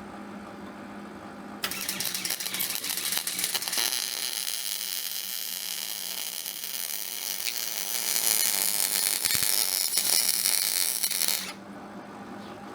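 Electric welding arc crackling steadily for about ten seconds, starting abruptly about two seconds in and cutting off near the end, over a steady low hum.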